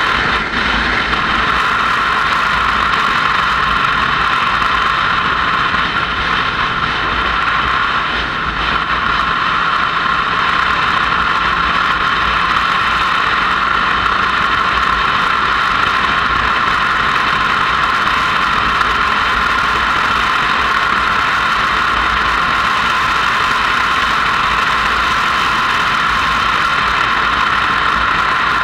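Motorcycle being ridden, picked up by a camera on the bike: steady wind rush over the microphone mixed with the engine's running noise and a low rumble.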